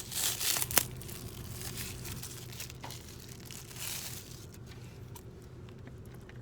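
Takeout food packaging crinkling and rustling as it is handled, with a sharp click just under a second in and more rustling a few seconds later, over a steady low hum.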